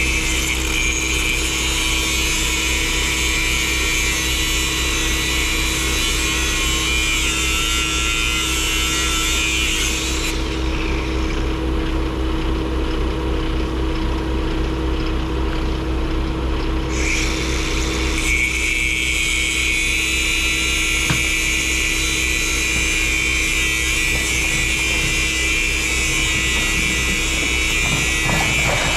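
A vehicle engine running steadily with road noise: a constant low hum under a broad hiss. The high hiss drops away for several seconds midway, then returns.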